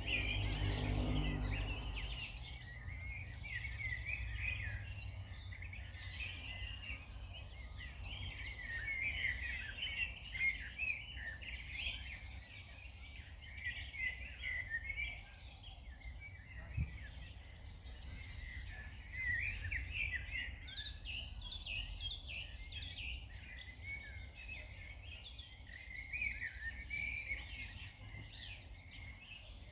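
Many small birds singing and chirping at once in a dense, continuous chorus, over a steady low rumble. A low humming tone fades out in the first couple of seconds.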